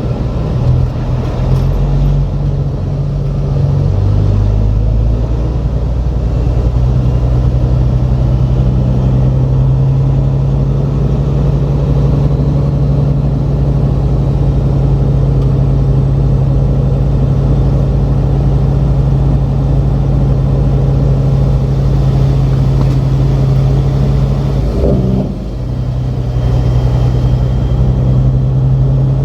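Semi truck's diesel engine running steadily under way, a strong low drone. Its note shifts in the first few seconds, and near the end it drops away briefly and comes back.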